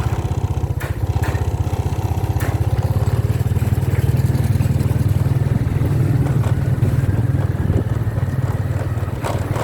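Motorcycle engine running steadily at cruising speed, heard from on the bike, with a low, even, rapid engine pulse.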